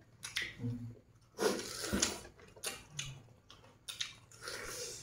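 Two people eating roasted duck with their fingers: chewing with wet lip smacks and short clicks, broken by a few brief hums.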